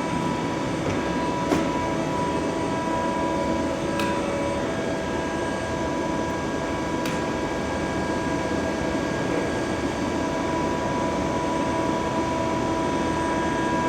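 CNC machine running steadily: an even mechanical hum with several steady whining tones, broken by a few faint clicks about a second and a half, four and seven seconds in.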